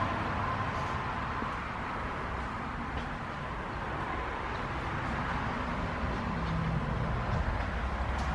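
Steady background noise: a low rumble with an even hiss and no distinct events, with a faint steady whine that fades out about a second in.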